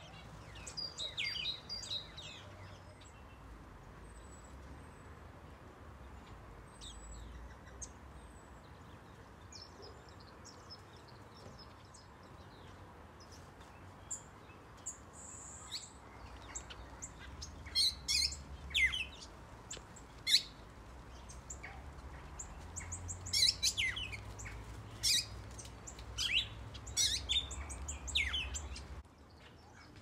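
Small aviary birds, a mix of finches and softbills, chirping and calling with short high chirps and quick downward-sweeping notes. The calls are scattered at first and become busier and louder in the second half.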